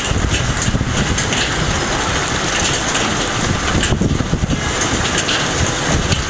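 Severe tornadic storm: heavy rain and strong wind making a loud, steady rushing noise with a deep rumble and constant crackling.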